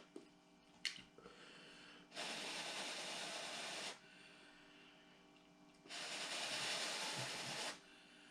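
A person blowing out two long, hissing breaths through the mouth, each about two seconds long: heavy breathing against the burn of very spicy fire noodles. There is a short click about a second in.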